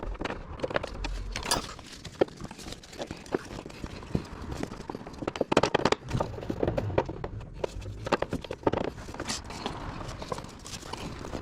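Irregular clinks and knocks of hand tools and metal parts being handled, a run of sharp taps with no steady rhythm.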